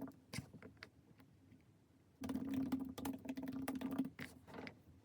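Faint, scattered light clicks and taps, joined about two seconds in by a low steady hum that stops shortly before the end.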